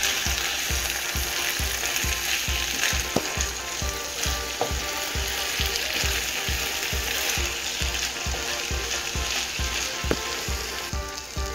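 Rice, beef, onion and carrot sizzling in hot oil in a frying pan, stirred and scraped with a wooden spatula. This is the short frying of the drained rice with the meat before the broth goes in, in making plov.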